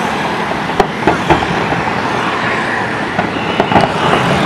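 Fireworks going off, several sharp pops over a steady rushing background noise.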